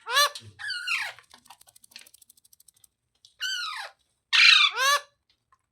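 Pet parrot squawking: about five short, harsh calls that drop in pitch, in two groups, the loudest pair near the end.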